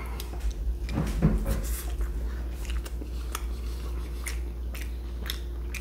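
A person biting into and chewing a barbecue pulled-pork and bacon burger. Soft mouth sounds with many small wet clicks and smacks scattered throughout.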